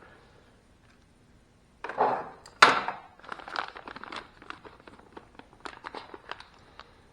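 Plastic parts bag being handled and opened: two loud bursts of crinkling about two seconds in, then steady rustling with small clicks.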